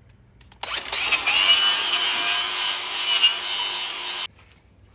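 A tool abrading the rusted steel muffler of a 1998 Yamaha Grizzly ATV, a loud, harsh, steady grinding with a faint whine in it. It starts about half a second in and cuts off abruptly after about three and a half seconds.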